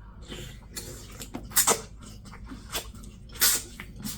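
Close-miked mouth sounds of someone chewing corn with loud wet smacking, a few short smacks standing out, the loudest about one and a half and three and a half seconds in.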